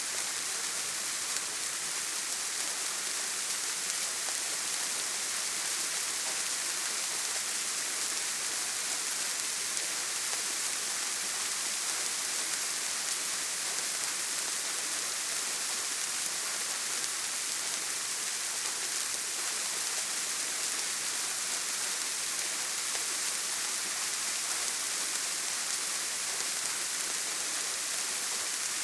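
Steady heavy rain, a dense even hiss with no thunder and no single drops standing out.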